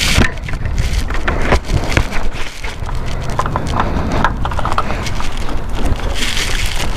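Harley-Davidson motorcycle engine running, picked up by a helmet chin microphone, with irregular sharp clicks and crackles throughout: an audio fault in the recording that is not wind noise.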